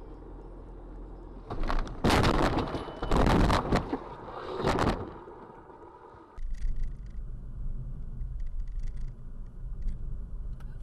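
Vehicle collision heard through a dashcam: steady road and engine noise, then three loud crashing, scraping bursts in quick succession. The sound drops off suddenly about halfway through, leaving quieter road noise with scattered clicks.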